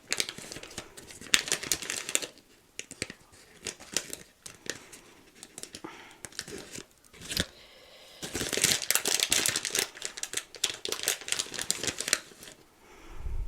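Crinkly packaging being crumpled and torn close up, in two long stretches of dense crackling, with a single sharp click about seven seconds in.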